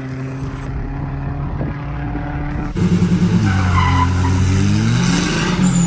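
A drag-racing car's engine running steadily at the start line, then loud and sudden at launch about three seconds in. After the launch its pitch drops and climbs again through a gear change.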